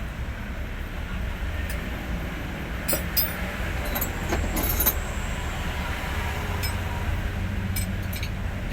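Hino 500 truck's diesel engine running with a steady low rumble, with several light metallic clinks over it, as of tools on metal.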